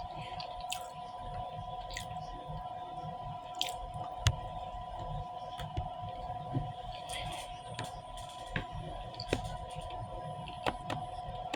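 Close-up chewing and mouth sounds: irregular wet smacks and clicks as food is eaten. A steady two-note hum runs underneath.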